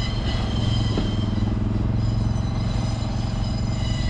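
Diesel engine of a Class 141 Pacer railbus idling steadily as the train stands, a constant hum with higher tones above it.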